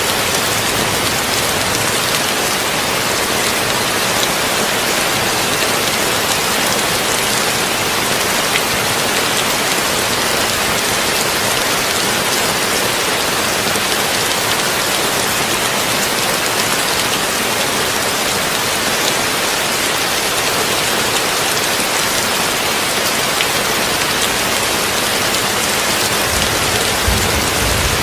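Heavy rain drumming steadily on a tin roof, a dense even hiss. A low rumble comes in near the end.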